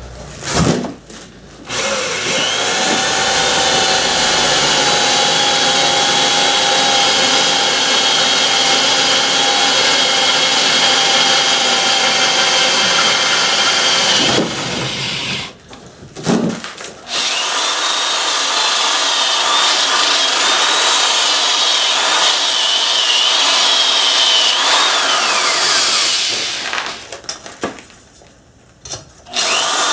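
Electric drill boring a hole for a metal repair strap on a garage door, running in two long stretches with a short stop between, then starting again near the end. A high tone wavers above the whine while it cuts.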